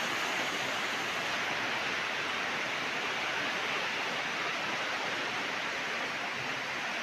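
Heavy rain pouring down in a storm: a dense, steady hiss with no breaks.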